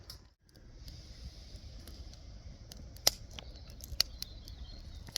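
A few sharp clicks and clinks, the two loudest about three and four seconds in, over a steady low outdoor rumble.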